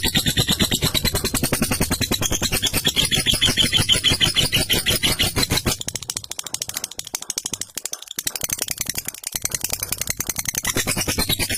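Lovebird's long 'ngekek' song: a rapid, rattling chatter of quickly repeated notes, kept up without a break, fading somewhat for a few seconds past the middle and then strong again.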